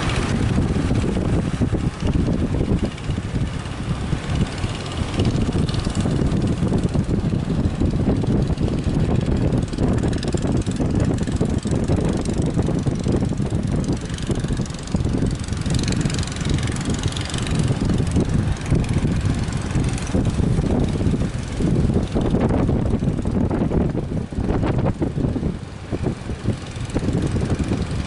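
Motor fishing boats running in a strong wind, the wind buffeting the microphone into a loud, gusty rumble.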